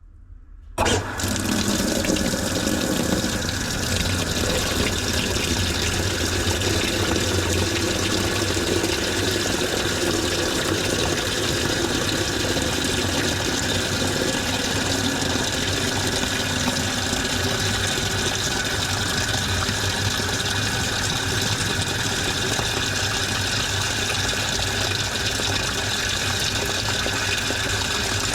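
Washing machine filling: about a second in, the water inlet valve opens with a sudden start and water rushes steadily into the drum with a low hum under it.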